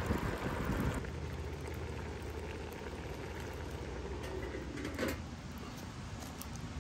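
Pot of beef goulash simmering over a campfire, a steady bubbling with no tune or rhythm to it.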